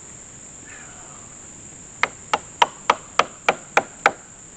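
Eight sharp knocks, about three a second, starting about two seconds in. Insects buzz steadily underneath.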